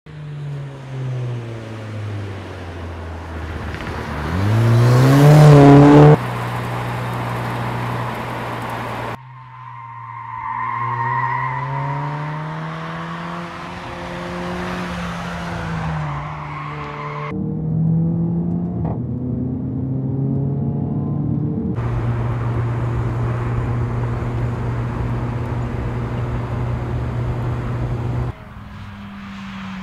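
Mercedes-AMG A45's turbocharged four-cylinder engine and exhaust under hard acceleration, its pitch climbing through each gear and dropping at the shifts. The loudest moment is a sharp rev rise about five seconds in, and the sound jumps abruptly between shots several times.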